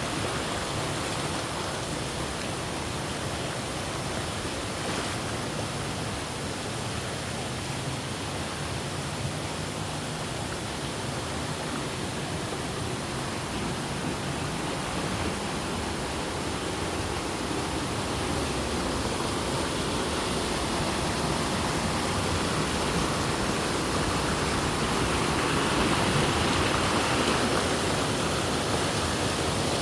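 Waterfall: a steady rush of falling water that grows somewhat louder over the last third.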